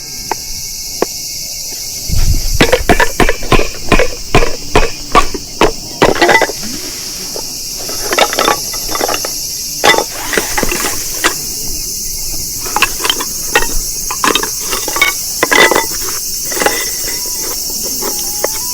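Sharp knocks of firewood being split: a quick run of strikes over a few seconds, then scattered single knocks. A steady chorus of insects chirring runs high underneath.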